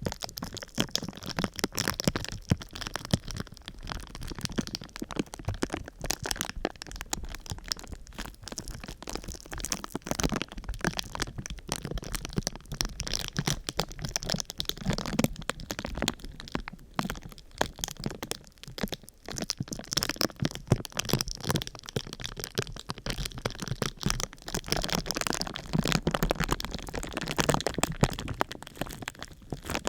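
Crinkly sheet material being handled and crumpled close to the microphone: a dense, unbroken run of crackles and crinkles.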